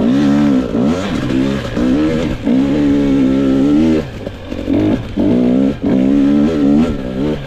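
Two-stroke single-cylinder engine of a 2022 GasGas EX 250 dirt bike under way, revving up and down as the throttle is worked on and off, with short lulls off the throttle about four seconds in and near the end.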